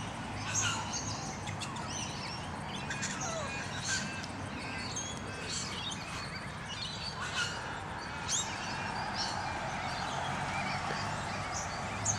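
Several birds chirping and calling, many short high chirps scattered throughout, over a steady low background hum.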